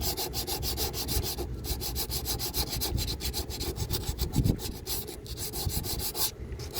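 Hand sanding with a small piece of 120-grit sandpaper, rapid, even back-and-forth strokes scuffing the outer edges of a damaged spot in a boat's painted surface. The strokes pause briefly about one and a half seconds in and again near the end. The sanding roughens the edges so that the epoxy filler will adhere.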